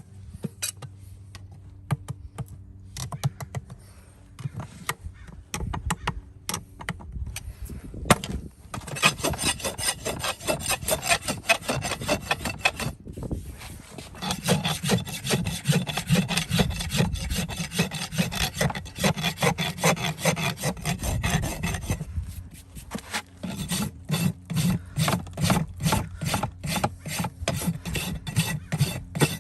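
A farrier's rasp filing a horse's hoof in quick back-and-forth strokes, with two short pauses, settling into about three or four strokes a second near the end. The first several seconds hold only light, scattered scraping and clicks.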